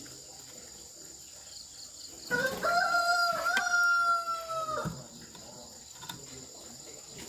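A rooster crowing once, one long call of about two and a half seconds starting about two seconds in, rising at the start, holding, then falling away.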